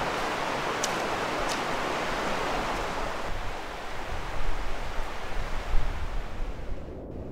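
Mountain stream rushing as a steady, even noise. A little past halfway it turns deeper and rumbling with uneven surges, then it cuts off abruptly just before the end.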